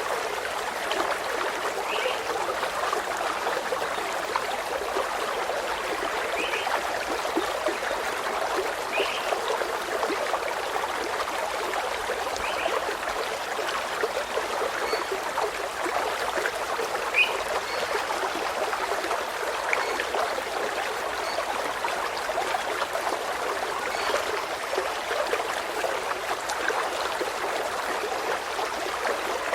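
Steady rush of running water, like a small stream trickling over stones, with faint short bird chirps now and then.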